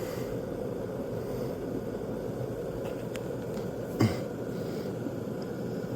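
Stainless steel electric kettle heating water close to a rolling boil: a steady low bubbling rumble from inside the kettle, with a brief knock about four seconds in.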